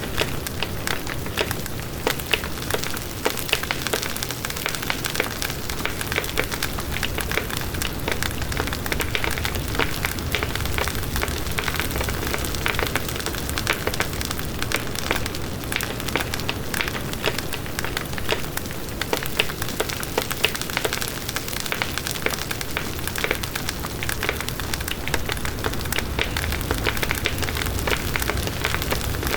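Campfire burning, wood crackling and popping continuously over the low rush of the flames.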